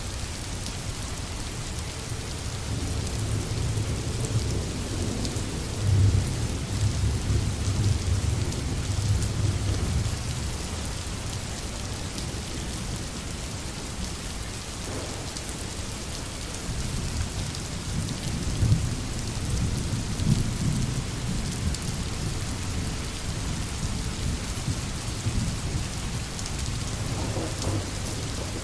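Steady heavy rain with low rolling thunder. The thunder swells twice, a few seconds in and again about two-thirds of the way through.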